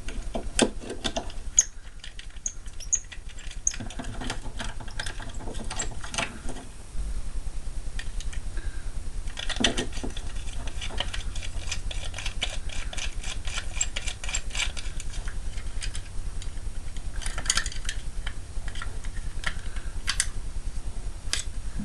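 Metal tools clinking and rattling as a socket is sorted out, then a socket ratchet clicking rapidly and steadily as a nut is turned off.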